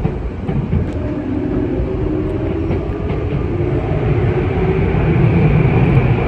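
Tokyu Oimachi Line commuter train running, heard from inside the carriage: a steady low rumble with a humming tone, growing a little louder toward the end.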